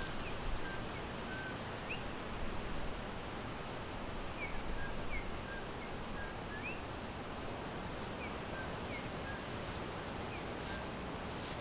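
Forest ambience: small birds giving short, scattered chirps over a steady background hiss.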